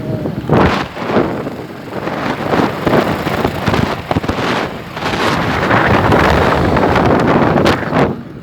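Wind buffeting the microphone: a loud, irregular rumbling rush that swells and dips.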